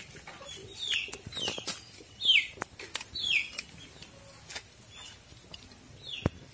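Small birds chirping: a run of short, falling chirps, about one every second, with a sharp tap near the end.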